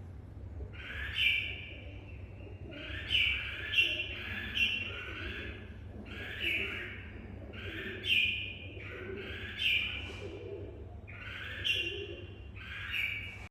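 Red-whiskered bulbul calling: about ten short, harsh two-part calls repeated at irregular intervals, roughly one every second or so.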